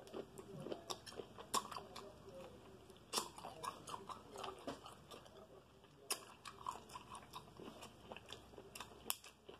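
A person chewing seafood close to the microphone, with wet smacking mouth sounds and many short sharp clicks scattered through.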